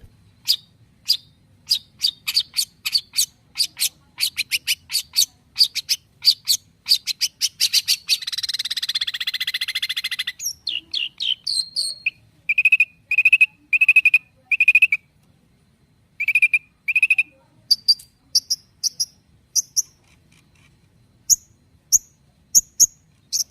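Long-tailed shrike (cendet) in full song: rapid sharp chips, a dense chattering trill about eight seconds in, then a run of clear whistled notes, and high squeaky notes near the end.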